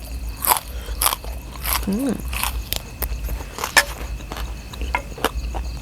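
A person eating close to the microphone: wet chewing with irregular crunches and smacks, and a short hum about two seconds in.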